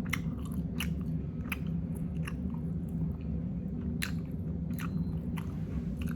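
Close-up mouth sounds of a person chewing food with open-mouthed smacking, a wet smack about every three-quarters of a second, over a steady low hum.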